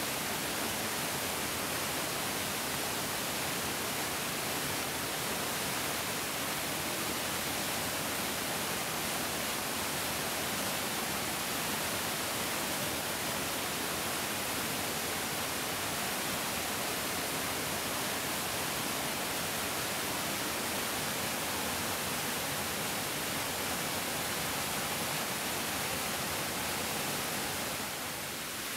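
A large mountain stream flowing: a dense, steady rushing of water, heavier in the hiss than in the rumble, easing slightly just before the end.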